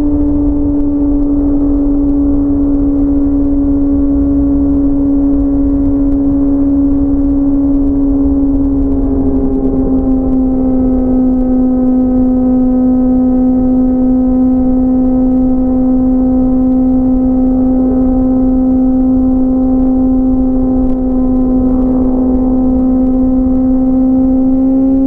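Inline-four sport motorcycle engine running at a steady high-revving cruise, a constant drone with a low wind rumble underneath. The pitch eases slightly about ten seconds in and climbs a little near the end.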